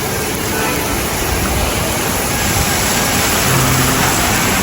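Heavy rain pouring down on a city street, a dense steady hiss of downpour, with a brief low hum a little past three seconds in.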